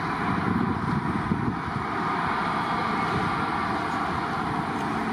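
Jet airliner engines running with a steady roar and a low, rumbling undertone.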